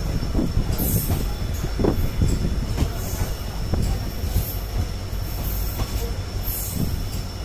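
Passenger express train rolling into a station, heard from an open coach door: the steady rumble and clatter of the coach wheels on the rails, with a few brief high-pitched bursts.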